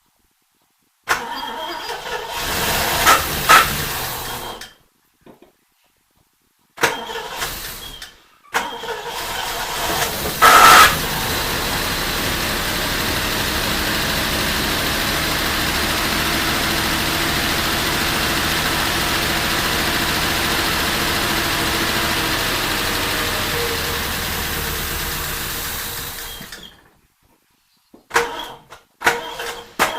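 Triumph Stag 3.0 litre V8 on its first start after long storage: short goes on the starter, then it catches about ten seconds in with a brief loud rev and runs steadily for about fifteen seconds before cutting out, the ignition not staying on. Near the end there are more short engine bursts.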